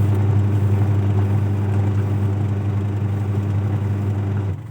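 Wash motor of a Sanyo/Aqua SW-870XT twin-tub washing machine running with a steady electric hum, then cutting off sharply near the end. The motor runs under test after the repair, showing it still works.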